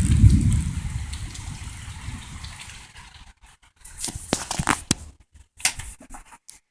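A low rumble that fades away over about three seconds, then scattered sharp crackles and clicks with short silences between them.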